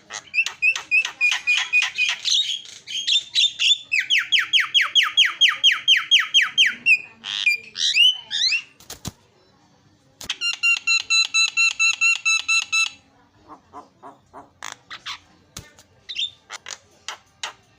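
Javan myna singing: fast runs of repeated ringing, harsh notes, several a second, in phrases broken by short pauses, with a couple of sharp clicks near the middle and softer quick notes near the end.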